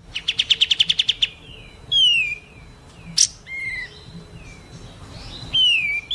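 Songbird calls: a fast trill of about a dozen notes in the first second, then single falling whistled notes and a sharp chip.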